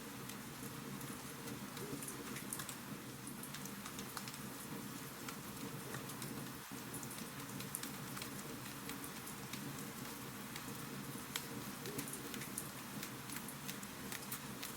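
Wood fire crackling in a fireplace: a steady soft hiss with many small, irregular pops and snaps.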